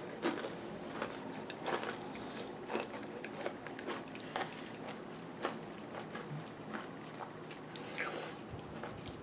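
Close-miked chewing of a mouthful of yogurt and granola, with faint, irregular crunches and clicks. A metal spoon scoops from the bowl.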